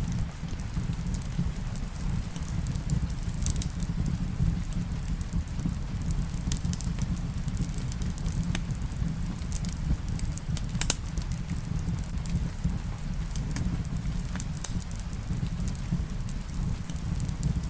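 Wood fire crackling, with scattered sharp pops, the loudest about eleven seconds in, over a steady low rumble of rain.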